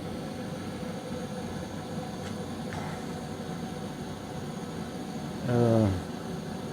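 A freshly lit fire burning in a brick corner fireplace's firebox on its first test firing, a steady rushing noise with a couple of faint clicks; the chimney is still cold. A man's voice sounds briefly near the end.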